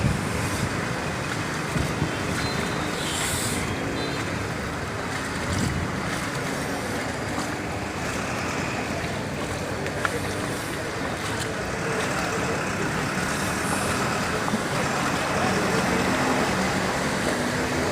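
Steady road traffic noise: cars and trucks running and passing at a busy junction.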